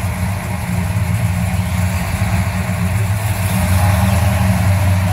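Car engine idling with a steady low rumble, swelling slightly a little past the middle.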